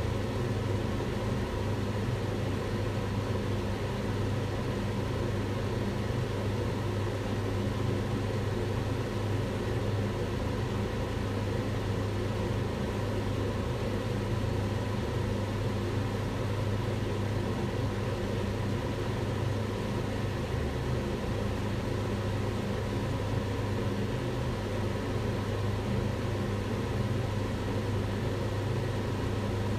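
Kitchen range hood extractor fan running steadily, a constant whoosh of moving air with a low motor hum.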